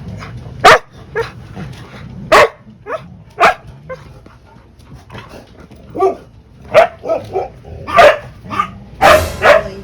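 Two huskies barking and yipping back and forth in short, loud, irregular bursts, the vocal 'talking' of huskies arguing with each other. The calls come closer together near the end.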